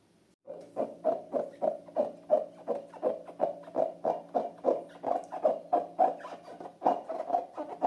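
Slime being squeezed and kneaded by hand, a regular squelch about three times a second, starting about half a second in.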